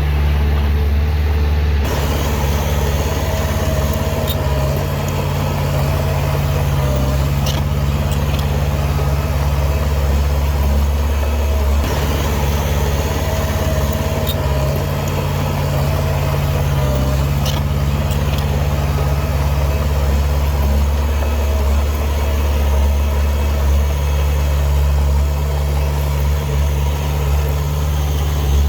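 Diesel engine of heavy earthmoving machinery running steadily, with a deep steady hum and a few light clicks scattered through.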